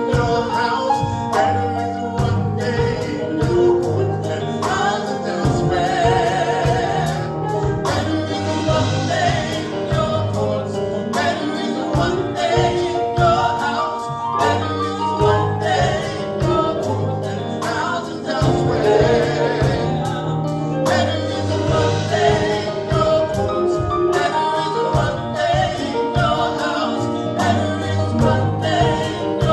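Live gospel praise-and-worship music: a band with a steady drum beat under singers holding sustained, wavering notes.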